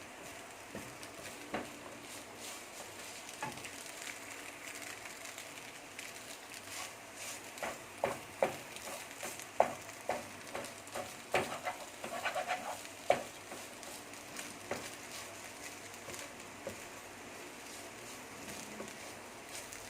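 Maggi noodles with chicken and egg sizzling in a pan while being stirred and tossed, a spatula scraping and knocking against the pan now and then, most busily in the middle.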